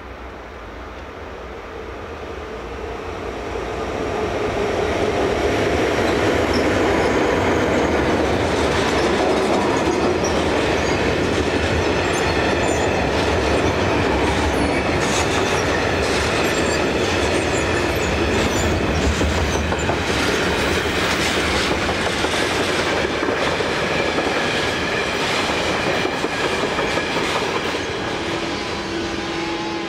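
A train passing close by: its rumble builds over the first few seconds, then the wheels click steadily over the rail joints for about twenty seconds before the sound starts to fade near the end.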